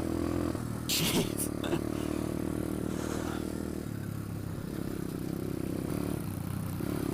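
Pit bike's single-cylinder four-stroke engine running steadily at part throttle while riding over rocky trail, with throttle changes about half a second, four seconds and six seconds in.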